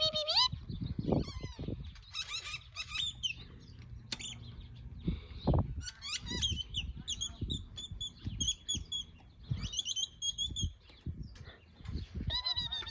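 Assorted birds calling: quick chirps and trills, then a steady run of repeated high notes in the middle, with occasional low thumps.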